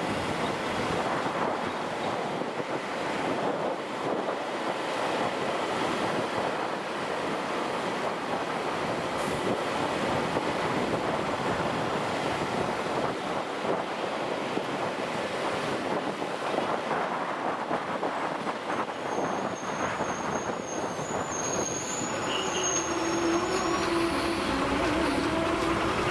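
Steady wind rush and road noise of a motorcycle ride on a hill road. In the last several seconds a faint wavering higher tone joins in.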